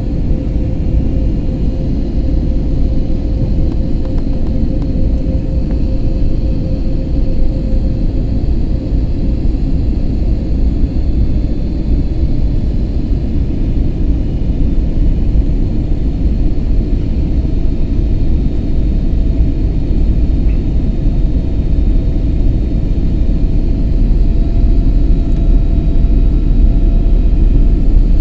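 Airbus A321neo in flight: a steady engine and airflow rumble, with faint steady tones above it. It grows slightly louder toward the end.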